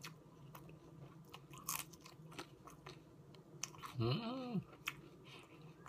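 A person biting and chewing a raw green bean and crunchy salad, with scattered crisp crunches and clicks; about four seconds in, a short vocal sound rising then falling in pitch.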